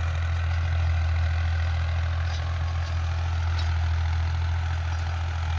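Tractor diesel engine running steadily at a constant speed, a deep even hum with no change in pitch.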